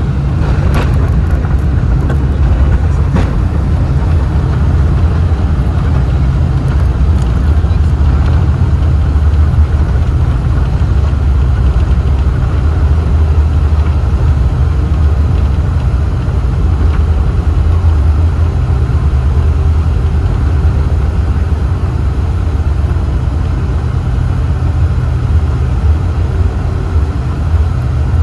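Loud, steady low rumble inside the cabin of a Qantas Boeing 747-400ER during its landing: engine and airframe noise, with a couple of sharp clicks in the first few seconds.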